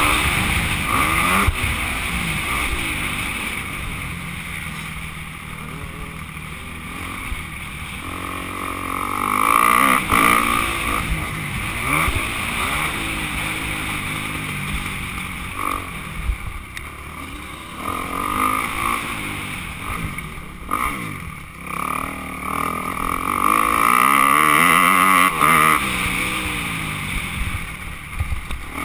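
Motocross bike engine running hard, its pitch rising and falling repeatedly as the rider opens and closes the throttle and shifts. It gets louder around ten seconds in and again in the last few seconds.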